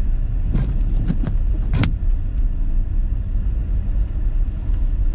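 Steady low rumble of a car driving, heard from inside the cabin, with a few short knocks in the first two seconds.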